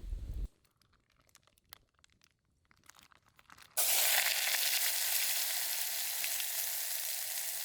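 A few small clicks in near-quiet, then just under four seconds in, food hits a hot pan and starts sizzling loudly and steadily.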